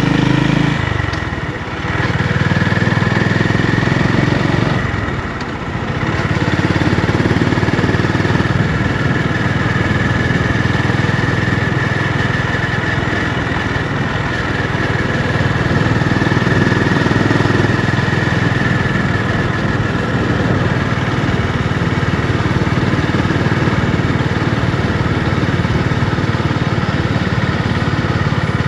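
Honda GB350's air-cooled single-cylinder engine running, its note dipping briefly twice in the first six seconds, then holding steady.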